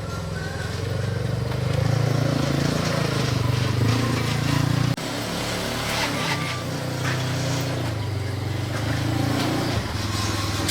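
Motorcycle engine running steadily, the sound breaking off abruptly and resuming about five seconds in and again near the end.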